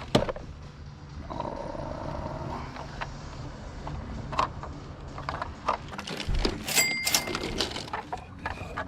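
Scattered light clicks and knocks of objects being picked up and handled, over steady background noise, with a brief high squeak about seven seconds in.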